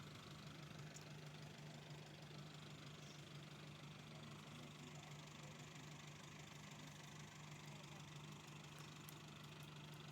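A faint engine running steadily, a low even hum with no change in speed.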